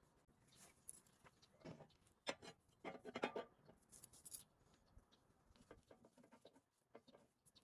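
Near silence with faint scattered clicks, taps and short scrapes of small handling noises, thickest about two to three and a half seconds in.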